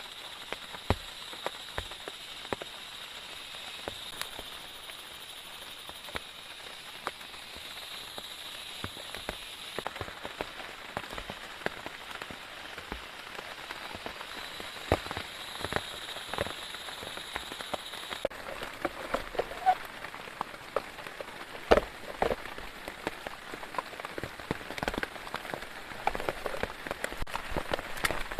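Rain falling, with many irregular drops tapping sharply on a surface; the drops grow denser and louder near the end. A steady high-pitched hum runs underneath and stops abruptly about 18 seconds in.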